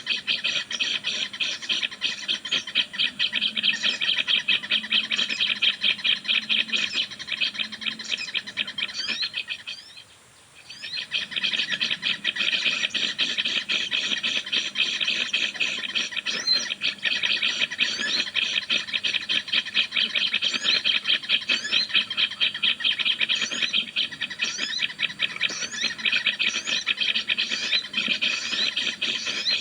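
Bird call as a rapid chattering trill, many notes a second, running on continuously and breaking off for about a second around ten seconds in.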